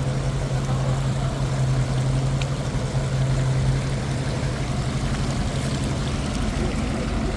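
A motor engine running steadily with a low hum over a rushing noise; the hum weakens about four seconds in.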